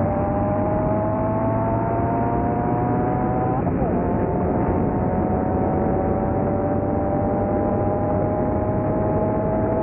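Car engine accelerating hard under full load, its pitch climbing steadily. The pitch drops sharply at two gear shifts, one right at the start and one about three and a half seconds in, then climbs again.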